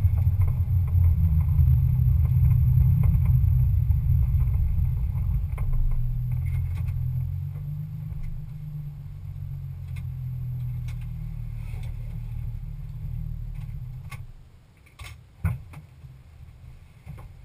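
Nissan 350Z's 3.5-litre V6 running at low speed and idling, heard from inside the cabin, then switched off about fourteen seconds in. A few sharp clicks and knocks follow in the quiet.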